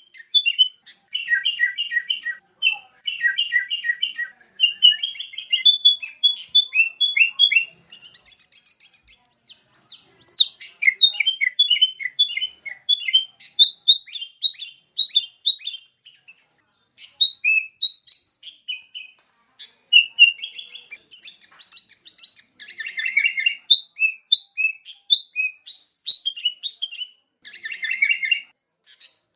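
Sooty-headed bulbul (Pycnonotus aurigaster) singing and chirping: quick runs of short, bright notes in bubbly phrases, with a brief pause about halfway through.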